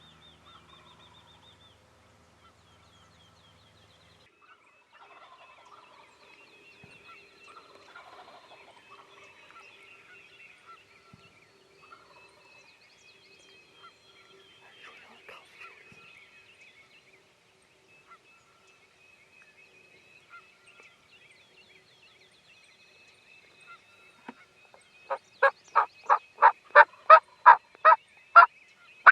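Faint dawn birdsong, then near the end a loud run of about a dozen turkey yelps, evenly spaced at about three a second.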